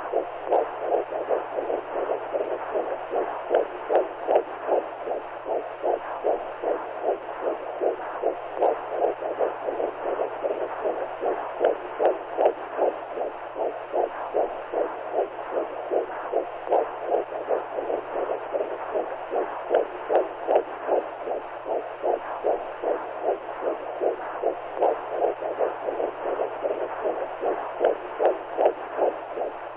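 Womb sound for soothing newborns: a steady whooshing noise that pulses evenly, about two beats a second, like a heartbeat heard through the body, over a faint low hum.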